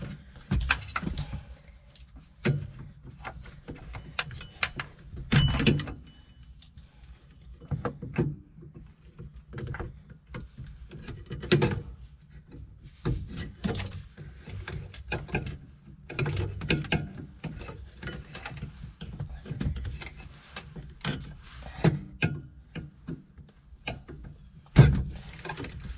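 Irregular clicks, knocks and rattles of plastic wiring-harness connectors and clips being prised loose under a tractor seat, with a few sharper knocks along the way.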